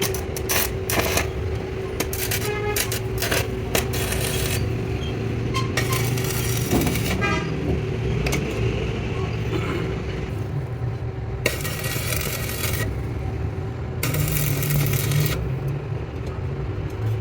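Metal tools and parts clinking, knocking and scraping, with rapid rattling runs, over a steady machine hum and low rumble. Three bursts of rushing noise, each about a second long, come about six, eleven and fourteen seconds in.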